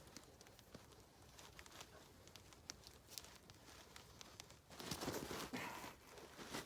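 Faint scattered clicks and rustling, then a louder stretch of rustling and scraping about two-thirds of the way through, as a person moves and handles gear.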